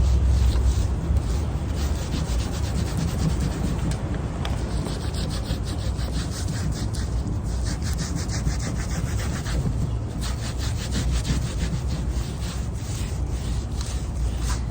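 Oil-based stain being scrubbed into a rough-sawn wooden board's grooves with quick, rapid back-and-forth rubbing strokes, over a low steady hum.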